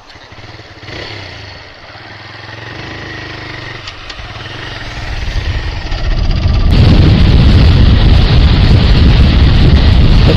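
Motorcycle engine running as the bike pulls away and gathers speed, growing steadily louder. About seven seconds in, wind rushing over the microphone suddenly takes over and drowns out the engine.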